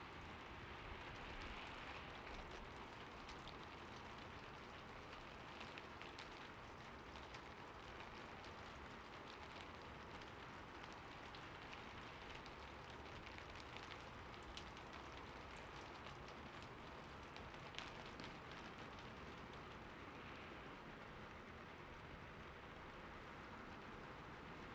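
Steady, faint rainfall: an even hiss of rain with many scattered drop ticks.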